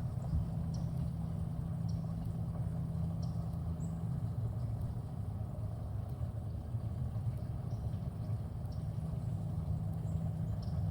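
Electric trolling motor running steadily, a continuous low hum, with a few faint light clicks over it.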